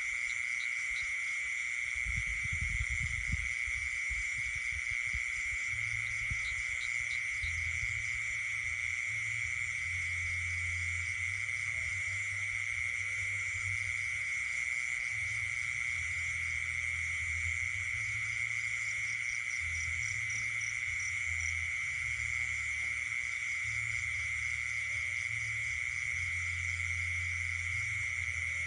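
Night chorus of frogs and insects calling: a steady, unbroken high trill with faster pulsing calls above it.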